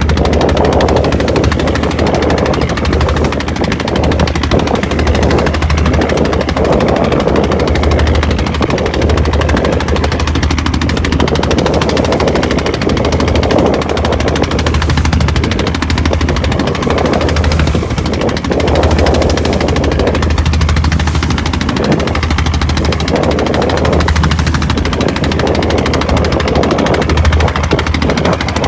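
Boat engine running steadily under way, with a fast, even knocking.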